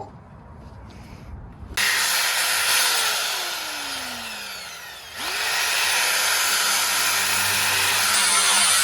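Electric drill boring into metal, widening pilot holes with a larger bit. It starts about two seconds in and its motor pitch falls as it bogs under load, stops briefly about five seconds in, then spins back up and runs steadily.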